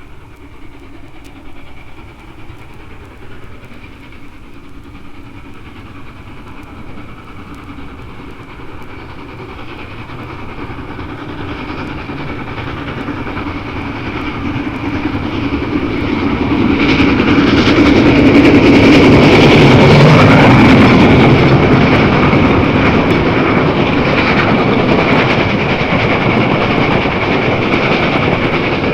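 Norfolk & Western class J 4-8-4 steam locomotive working hard upgrade, its exhaust beats growing louder as it approaches and passes, loudest about two-thirds of the way in. The clatter of the train's wheels over the rail joints follows.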